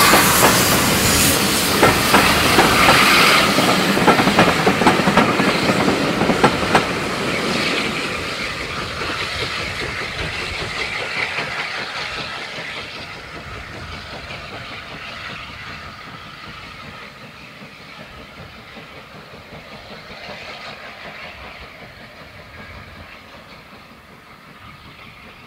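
A steam-hauled train of passenger coaches rolls past, its wheels clicking over the rail joints for the first several seconds. The sound then fades steadily as the train draws away into the distance.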